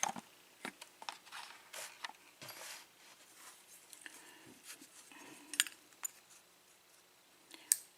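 Small metal clicks and light clinks as the top pins of a 5-pin lock are handled and tipped out of the lock body, with two sharper ticks, one past the middle and one near the end.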